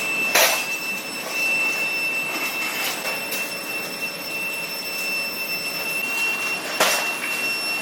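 Heavy workshop machinery running with a steady high whine over a rushing noise, with three sharp metallic knocks spread through it.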